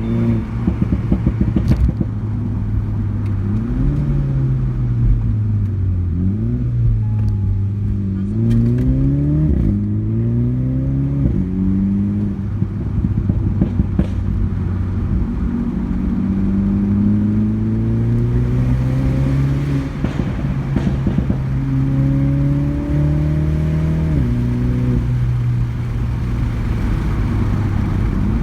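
Mini JCW (F56) 2.0-litre turbocharged four-cylinder with a custom pop-and-bang exhaust, driven hard: the engine note climbs several times, with a drop in pitch at each gear change. Clusters of crackles and pops from the exhaust come on lift-off, near the start and again about two-thirds of the way through.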